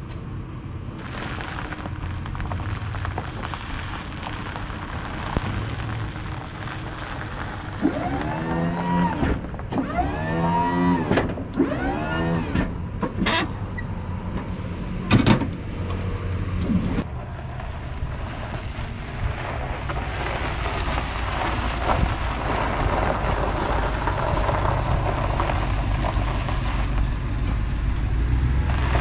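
Pickup truck engine running steadily, with three short electric-motor whines that rise and fall in pitch, followed by a few clicks and one sharp clunk.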